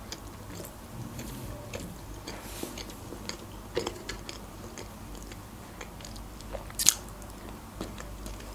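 Close-miked chewing of a mouthful of soft cream-filled eclair: soft wet mouth clicks and smacks, with sharper smacks about four and seven seconds in.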